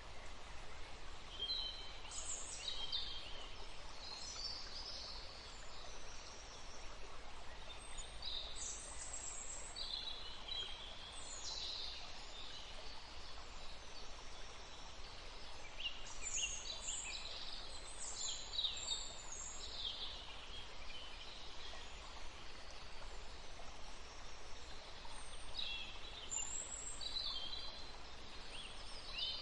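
Forest stream running as a steady hiss under songbirds that sing in short clusters of high calls every several seconds.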